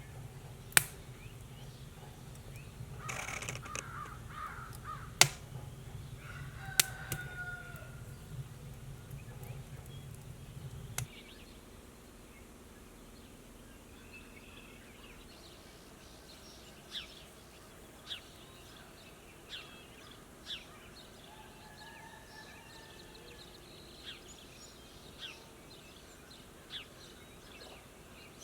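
Wild birds calling outdoors: a few harsh calls early on, then short high chirps every second or two. Under the first part runs a low rumble that cuts off about a third of the way in, with a few sharp clicks.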